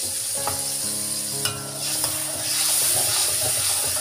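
Ground chili paste sizzling as it fries in a steel wok, with a spatula stirring it and scraping the pan. The sizzle grows louder a little past halfway through.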